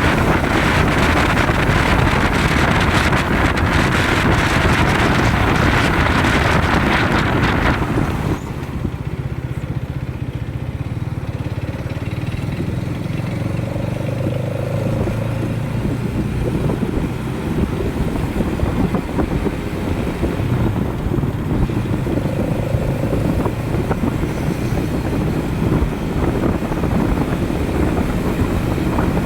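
Motorcycle on the move: wind rushing over the microphone, which eases suddenly about eight seconds in, with the engine running underneath.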